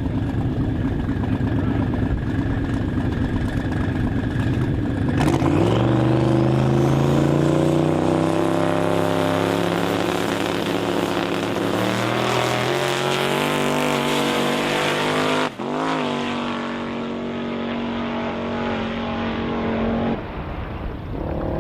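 Twin-turbo 5.3-litre LM7 V8 of a 1992 Nissan 300ZX running steadily on the line, then launching at full throttle about five seconds in. The revs climb in steps through the gear changes for about ten seconds of the quarter-mile pass, cut off sharply as the throttle is lifted, and the engine carries on at a steady lower note before fading near the end.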